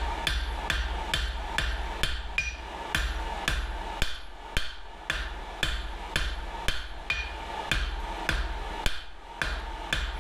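Blacksmith's hand hammer striking steel on an anvil in a steady rhythm, about two and a half blows a second, each with a short metallic ring. The hammer is a freshly forged dog's head hammer, not yet hardened, its handle fitted without wedges.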